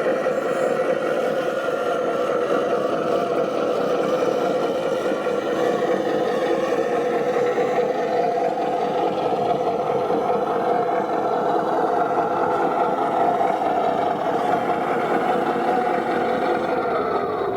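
Radio-controlled model construction vehicles running: a steady mechanical whine whose pitch drifts slowly up and down, with one tone sliding down near the end.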